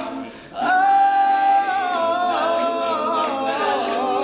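All-male a cappella group singing wordless sustained chords, with a brief dip about half a second in before the voices come back in together on a held chord.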